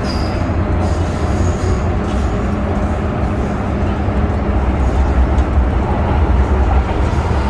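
MTR M-Train electric multiple unit running, a steady low rumble of wheels and traction with no break.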